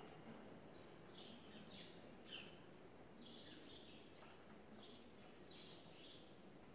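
Near silence, with faint short bird chirps, each dropping a little in pitch, coming one or two a second.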